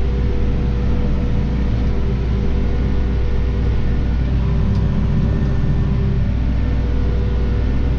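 Claas Arion 530 tractor running steadily, a constant low engine drone with a steady hum over it.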